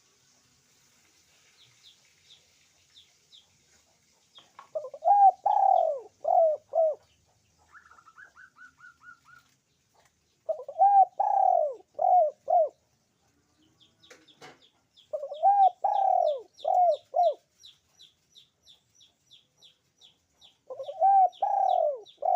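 Puter pelung (barbary dove) cooing in four phrases about five seconds apart, each a long coo followed by two short ones. A small bird chirps faintly and quickly in the background.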